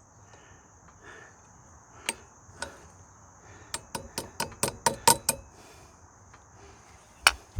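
Metal hand tools clinking and tapping on an ATV's rear axle parts. There are two taps, then a quick run of about ten, and one sharp louder strike near the end, with crickets chirping steadily behind.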